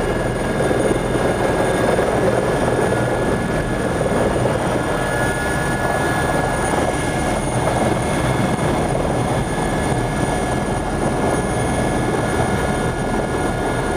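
Helicopter in flight, its engine and rotors running in a steady, loud drone with a faint high whine over it, as heard on board.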